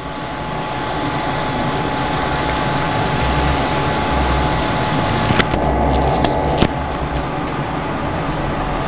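Hot-air blowers of a BGA rework station running steadily with a faint whine during the heating cycle, as the chip is slowly warmed. A few light clicks come about five to seven seconds in.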